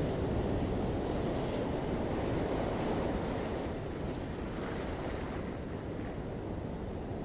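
Ocean surf washing onto a beach, a continuous rush of water that swells in the first few seconds and then eases slightly.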